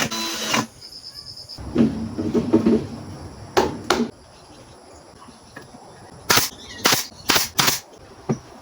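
A running tool cuts off just after the start. Then come some clattering, two sharp snaps, and four more sharp snaps about half a second apart near the end, typical of hand work on a metal cage frame.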